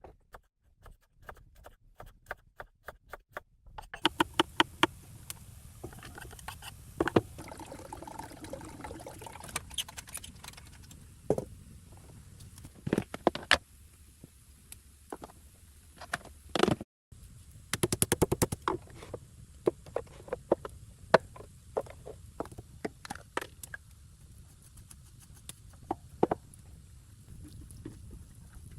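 Irregular knocks, taps and scrapes over a low, steady background, with quick runs of clicks at several points and a brief break just past the middle.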